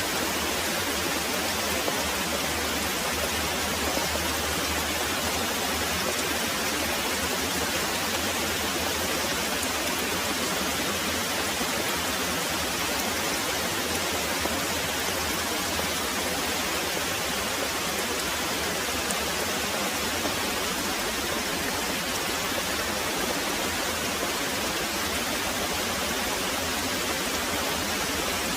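Very heavy rain pouring steadily: an even, unbroken hiss with no single drops or thunder claps standing out.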